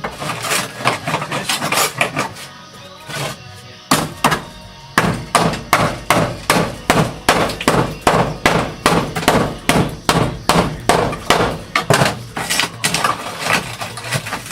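Repeated hammer blows on sheet-steel bodywork, a regular run of sharp knocks about two to three a second, with one heavy blow before them, over background music.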